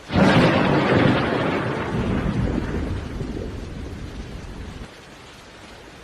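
A sudden loud crash that rumbles and slowly fades over about four seconds, then cuts off abruptly.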